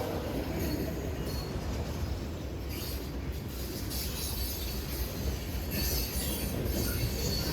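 Freight train rolling past, a steady low rumble of wheels and cars on the rails.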